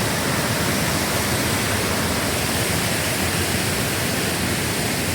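Rain-swollen waterfall and stream in flood: a steady, loud rush of water.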